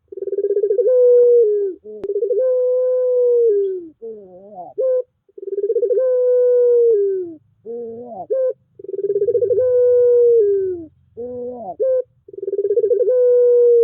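Puter pelung dove calling over and over: each phrase is a short wavering note followed by a long, drawn-out coo that falls off at the end, about four long coos in all.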